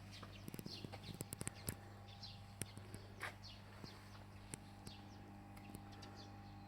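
Small birds chirping faintly, a string of short falling calls repeated every half second or so, with a quick run of clicks or taps about half a second to two seconds in, over a steady low hum.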